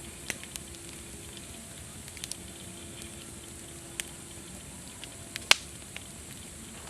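Campfire crackling: a steady soft hiss with scattered sharp pops, the loudest snap about five and a half seconds in.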